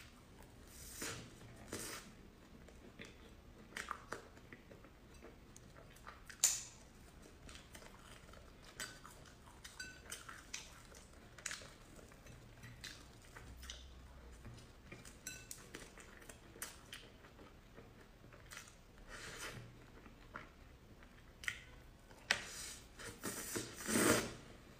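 Chewing cream puffs close to the microphone: soft, irregular mouth sounds with occasional light clinks of cutlery or dishes. The loudest come about six seconds in and in a bunch near the end.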